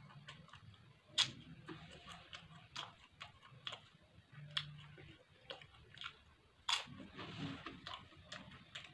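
Close-miked eating sounds: a person chewing, with irregular wet mouth clicks and crunches. Two sharper, louder crunches come about a second in and again about two-thirds of the way through.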